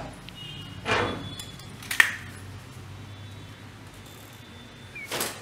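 Steady light rain hiss with handling sounds: a soft rustle about a second in, a single sharp click about two seconds in, and another rustle near the end.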